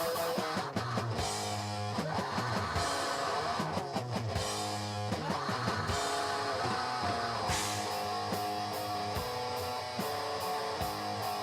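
Black metal song, an instrumental passage of strummed electric guitars playing sustained chords.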